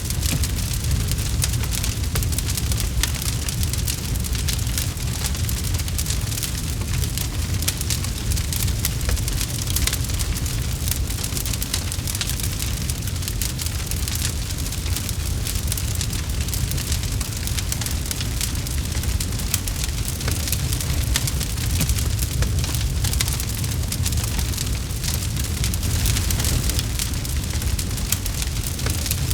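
Campfire burning steadily: a low rumble of the flames under a dense run of small crackles and pops from the burning wood.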